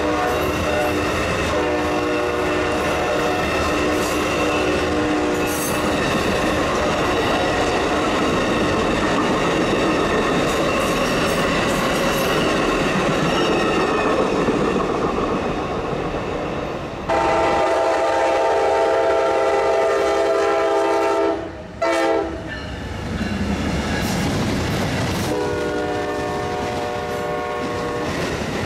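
Amtrak passenger train passing with its horn sounding in long blasts. Between the blasts the cars rumble and clack over the rails. The sound jumps abruptly where the footage is cut.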